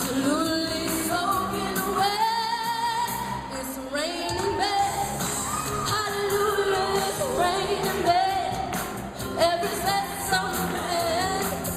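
Pop song with a sung vocal line held and gliding over a steady backing track.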